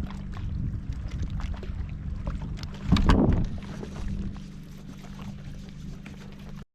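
Wind noise on the microphone of a kayak on the water, over a steady low hum, with a louder rush of noise about three seconds in. The sound cuts off abruptly near the end.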